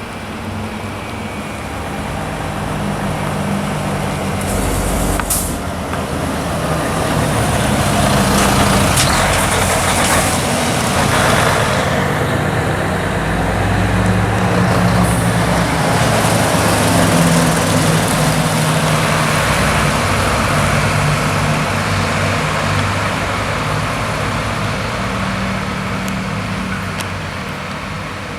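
Diesel engines of two Mercedes-Benz fire trucks, an Actros and an Atego, running past at speed, growing louder and then fading. A couple of sharp hisses from the air brakes come about 5 and 9 seconds in.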